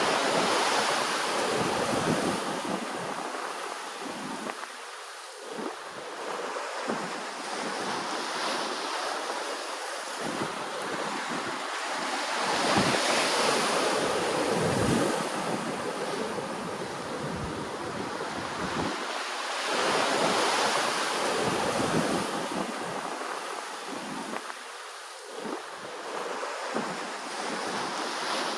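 Ocean waves washing in, the wash swelling and falling back every several seconds, with wind buffeting the microphone.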